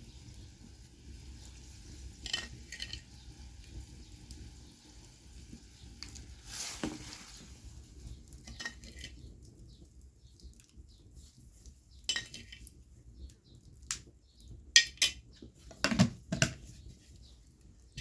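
Kitchen utensils and dishes clinking and knocking against each other: scattered short clinks, with the loudest cluster near the end.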